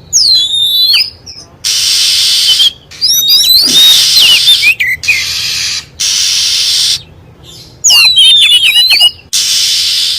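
Oriental magpie-robin lure recording. Phrases of sharply rising and falling whistled notes alternate with harsh, hissing churr calls about a second long, three of each.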